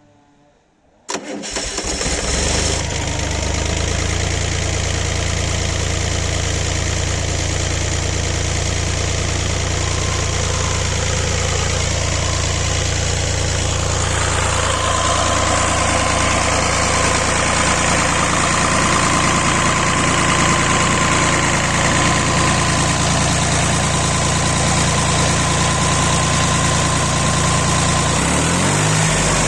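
D-130 diesel engine starting about a second in and settling within a couple of seconds into a steady run. About halfway through a steady whine joins and the sound grows brighter.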